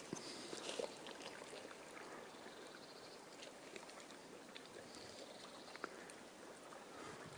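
Faint outdoor ambience on the water: a soft, even hiss with scattered small ticks and knocks.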